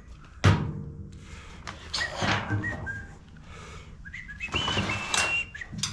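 A sharp knock about half a second in, then someone whistling a few short, high, held notes that step slightly in pitch, with light clatter of parts being handled.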